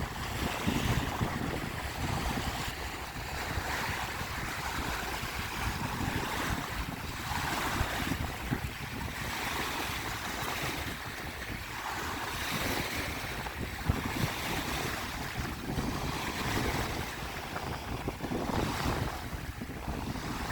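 Lake waves washing in against the shore, swelling every few seconds, with wind rumbling on the microphone.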